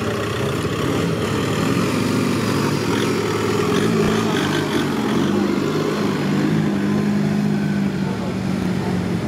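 Engine of a lifted Suzuki Samurai 4x4 running as the vehicle pulls away over cobblestones, its note settling into a steady pitch through the second half.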